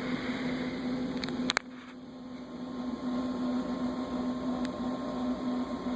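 Steady room hum with a sharp click about one and a half seconds in and a fainter click near the end.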